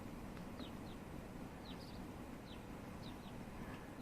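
Wild birds chirping faintly: about eight short, high chirps, often in pairs, each dropping quickly in pitch.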